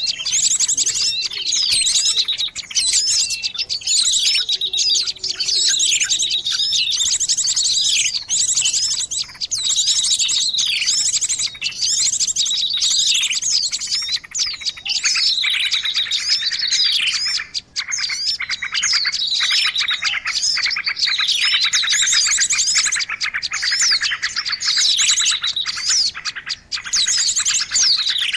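Dense, noisy chorus of many small birds chirping and calling over one another: rapid high trills mixed with repeated falling chirps, with no pauses. It is a 'ribut' bird-lure recording, the agitated small-bird racket played to draw wild small birds in.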